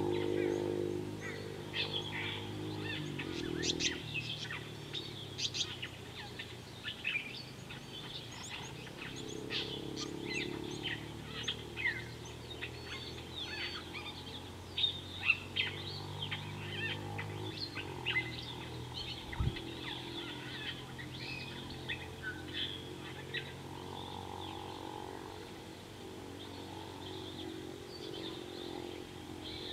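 A busy chorus of birds chirping and calling all through, with many short, quick notes. Underneath, a low droning hum fades in and out, and there is a single low thud about two-thirds of the way through.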